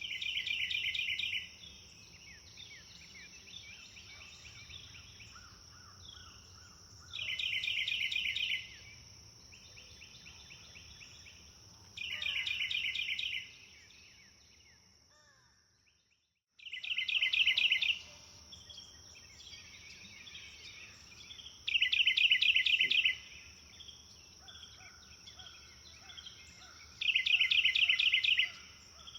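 Songbird ambience: a bird repeats a short, fast trilled phrase about every five seconds, six times in all, with softer calls of other birds between. Under them runs a steady high-pitched whine. All of it cuts out for a moment about halfway through, then resumes.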